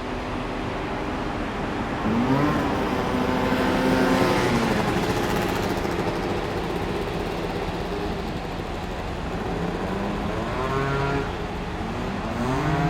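Motor vehicle engines passing, their pitch rising and falling as they accelerate and go by.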